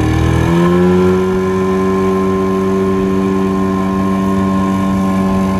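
Two-stroke jet boat motor revving up as the boat gets under way: its pitch rises through about the first second, then it holds steady at high revs.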